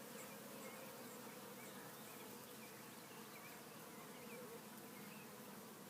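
Honeybees buzzing around their hive: a steady, faint hum of many wingbeats.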